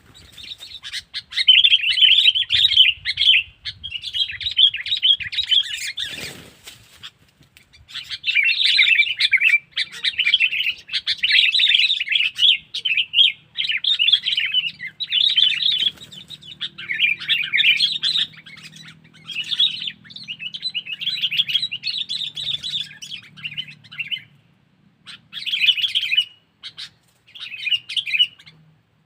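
Sooty-headed bulbul (kutilang) giving rapid, chattering calls in repeated bursts, with a single thump and a short pause about six seconds in.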